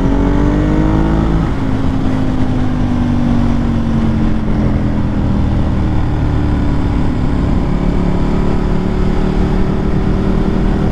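Ducati 1098's L-twin engine under way: the revs climb for about a second and a half, drop at a gear change, sag slowly for a few seconds, then rise gently again near the end.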